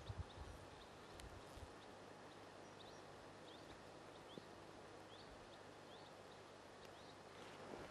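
Near silence, with faint, short, high chirps of a small bird repeated every second or so and one faint click about a second in.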